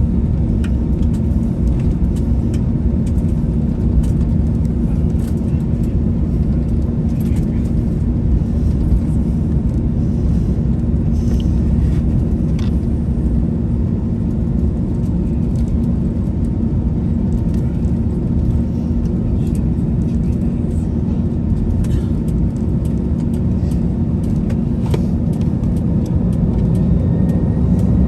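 Airliner cabin noise from an Airbus A321-200 on the ground: a steady low rumble with a constant hum and scattered light clicks and rattles. Near the end a faint rising whine begins.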